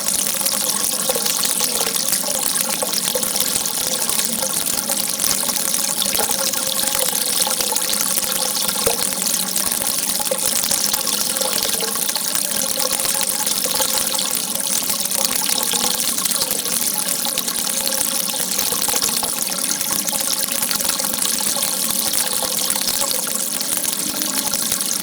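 Water gushing in a steady, unbroken stream.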